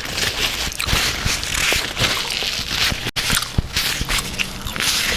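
Close handling noises of food being eaten: rustling, crackling and squishing with many small clicks, typical of picking at seafood boil in a sauce. The sound cuts out for an instant about three seconds in.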